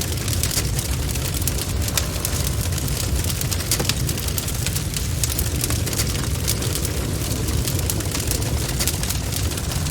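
Bonfire burning: irregular sharp crackles and pops from the burning wood over a steady low rumble of the flames.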